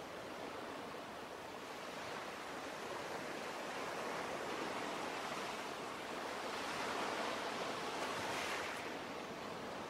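Ocean surf: a wave washing in, swelling to a peak near the end and then easing off.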